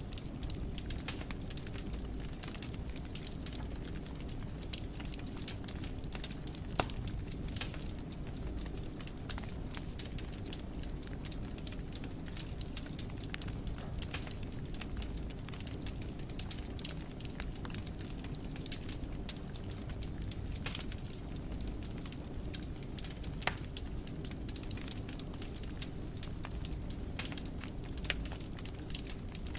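Wood fire burning in a fireplace: a steady low rumble of flames with frequent small crackles and pops, a few sharper pops among them.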